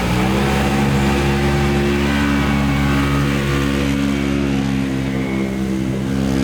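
A stock UTV engine running hard at high revs: the pitch climbs in the first second or so, then holds steady and loud.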